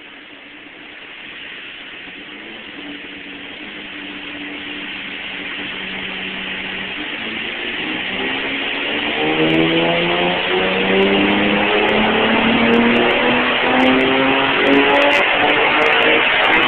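Twin-turbocharged 2003 Infiniti G35 coupe's 3.5-litre V6 making a full-throttle pull on a chassis dyno. The engine note climbs steadily in pitch and loudness over a rising rush of exhaust noise, getting loudest near the end.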